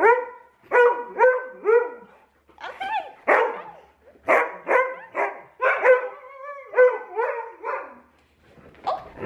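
Husky giving a long run of short, pitched barks and yips in quick clusters, with one longer drawn-out call a little past the middle: excited, insistent vocalising at a greeting.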